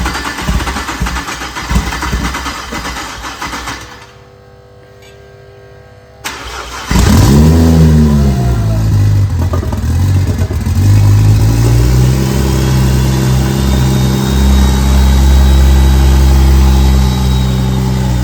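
Freshly rebuilt BMW N54 twin-turbo 3.0 L inline-six cranking on the starter. After a brief pause it cranks again and fires about seven seconds in, with a quick rev flare up and back down. It then settles into a loud, steady idle: a successful first start of the built engine.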